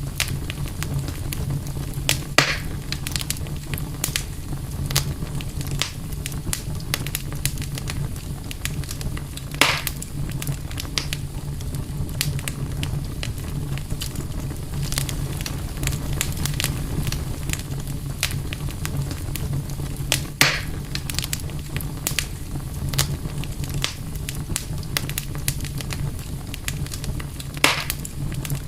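Campfire crackling steadily, with four louder sharp pops spread through it, over a steady low rumble.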